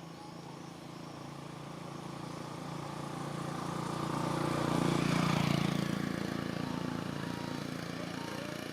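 A motor vehicle's engine passing by, growing louder to a peak a little past halfway and then fading.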